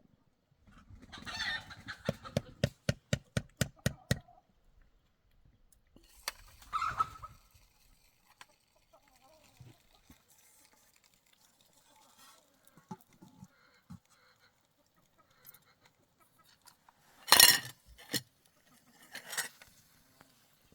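Domestic fowl clucking: a fast run of clucks, about four a second, in the first few seconds, then a few separate louder calls later on.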